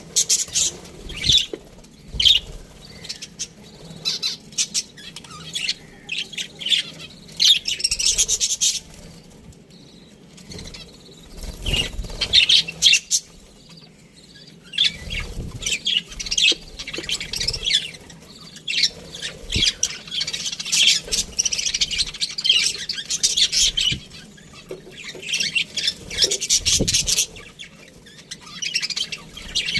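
A flock of budgerigars chirping and chattering in dense bursts of high, rapid notes, with short lulls about ten and fourteen seconds in. A few low thuds sound among the calls.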